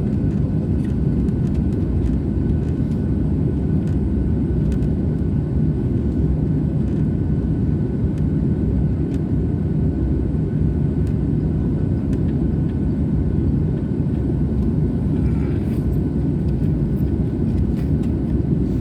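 Jet airliner's engines running with a steady low rumble and a constant hum.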